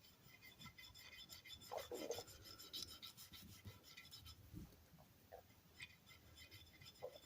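Faint, irregular rubbing strokes of RIT dye being worked onto a restored tool part. The strokes are busiest between about one and a half and four and a half seconds in, then grow sparser.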